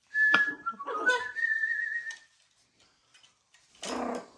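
Macaw whistling: a high whistle that steps up and down in pitch, then holds one note for about a second, with a raspy edge. Near the end comes one short harsh squawk.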